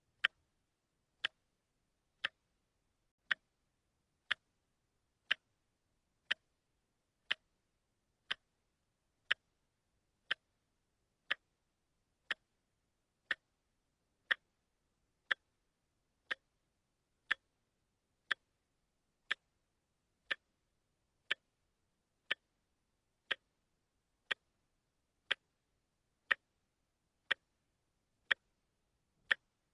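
Wristwatch ticking: a sharp, even click once a second.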